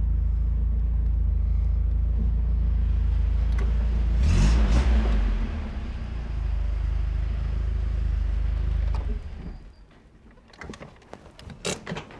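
1977 Toyota Celica RA28 engine running, revving up briefly about four seconds in and then settling back. The engine sound stops about nine seconds in, followed by a few light knocks.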